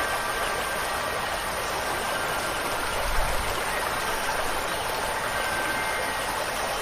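Steady hiss of rain and running water, with faint wind chime tones ringing softly behind it. A brief low thump comes a little after three seconds in.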